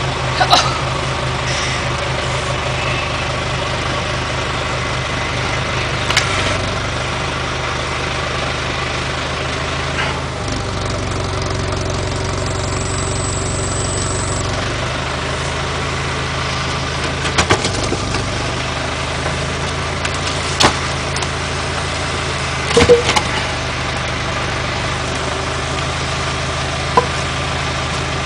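International Harvester (IHC) tractor engine idling, its speed shifting a few times. Several sharp knocks of firewood logs being loaded sound over it.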